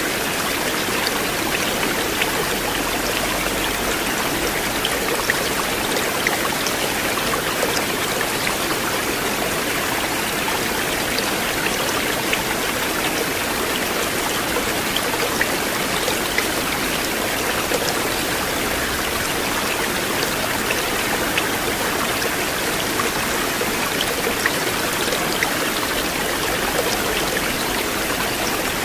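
River water flowing in a steady, even rush, with many small splashes and drip-like ticks scattered through it.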